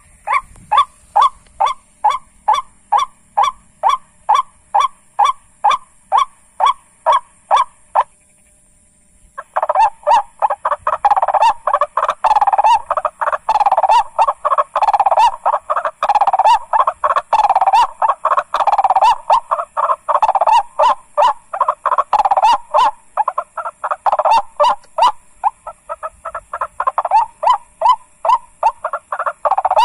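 White-breasted waterhen (ruak-ruak) calls, the harsh repeated call used here as a lure, going about three times a second. They break off abruptly for about a second and a half around the middle, then come back denser and overlapping, as if several birds or calls were going at once. A faint steady high insect-like whine lies underneath.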